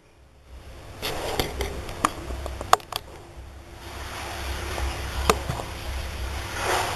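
Several sharp clicks and knocks over a low rumble and hiss.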